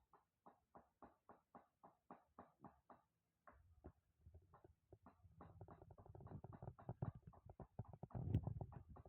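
White-rumped shama (murai batu) giving short, harsh repeated calls, about three a second at first. After a brief pause they come faster and more irregular, over a low rumbling that grows louder near the end.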